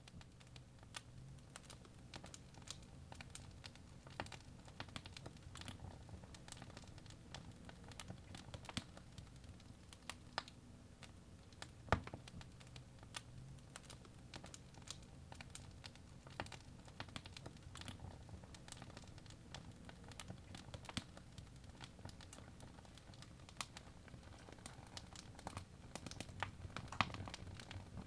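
Fire crackling in a fireplace: irregular sharp pops and snaps, a few louder than the rest, over a low steady rumble.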